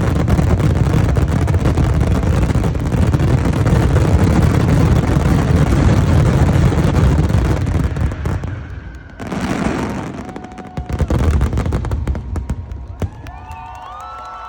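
Fireworks barrage: a dense, continuous run of bangs and crackling that drops off suddenly about eight seconds in, followed by one last burst and thinning pops. Near the end a crowd starts cheering and whistling.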